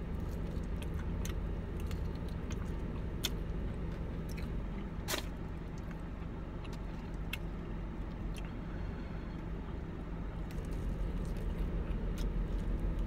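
Close-up chewing and biting on fried chicken wings, with scattered small crunchy clicks and a sharper one about five seconds in, over a steady low hum inside a car.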